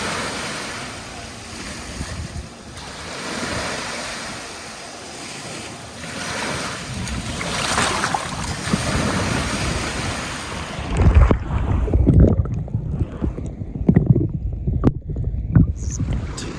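Sea waves washing in slow swells. From a little over halfway in, gusts of wind buffet the microphone with low rumbles.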